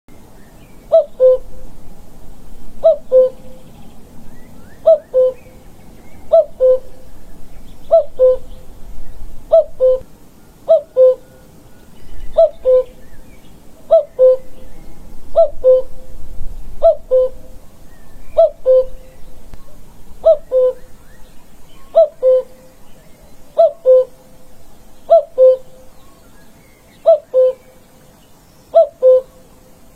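A bird repeating a two-note call, a higher note then a lower one, about every two seconds throughout, with faint high chirping from other birds in the background.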